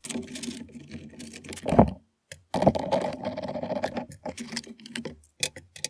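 Quick runs of clicking and light metal clatter from hand-tool work on bolts, with a short pause about two seconds in and a few sharp separate clicks near the end.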